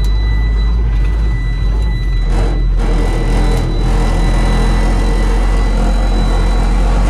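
Water truck's engine running with a loud, steady low rumble as the truck is driven.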